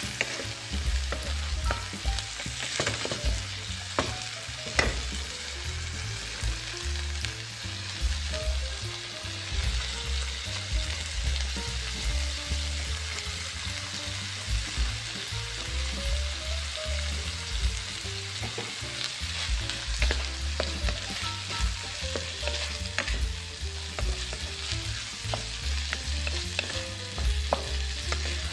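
Tugi (lesser yam), corn and corned beef sizzling as they fry in a pot, with a steady hiss. They are being stirred, with scattered sharp clicks of the utensil against the pot.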